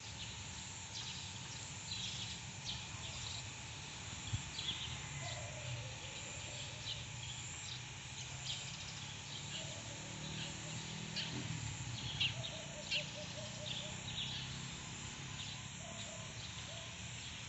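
Faint outdoor ambience with small birds chirping now and then, short high calls scattered through the whole stretch.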